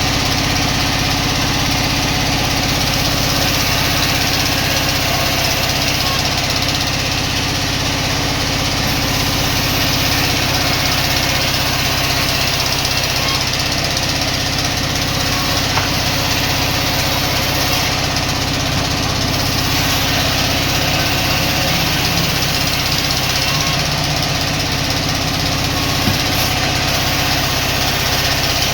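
Sawmill machinery running steadily, a constant engine-like drone with no change in load, plus two brief clicks, one about halfway through and one near the end.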